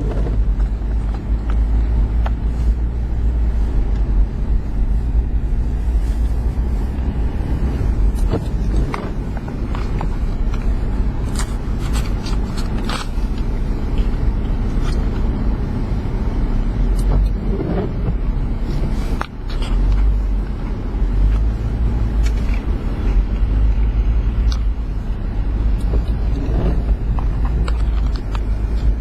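Motor vehicle running: a steady low rumble with scattered short clicks and knocks over it.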